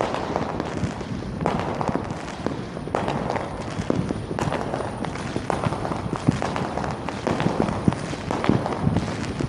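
Fireworks and firecrackers going off: an irregular string of pops and crackles, several a second, over a steady outdoor din.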